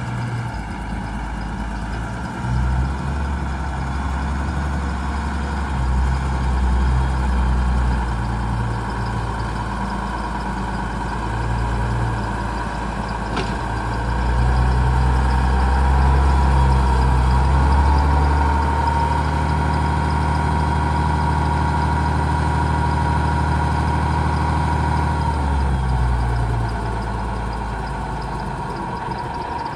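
Case IH Magnum 7120 tractor's diesel engine running steadily. About halfway through, the engine speed is raised and held higher and louder, then drops back to a lower speed near the end, with a steady whine above the engine note.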